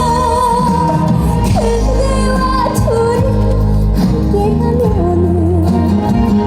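A woman singing a Korean ballad-style song live over a loud backing track, holding notes with wide vibrato and sliding between pitches.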